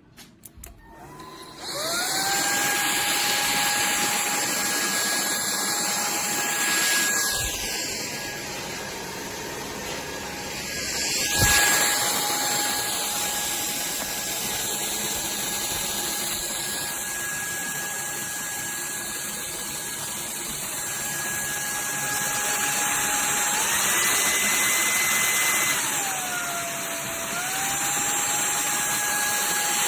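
SKIWEC cordless stick vacuum switched on with a click, its motor spinning up within the first two seconds to a steady high whine. There are a couple of knocks about 7 and 11 seconds in. Past the two-thirds mark the pitch rises, then dips lower and recovers as the load on the motor changes.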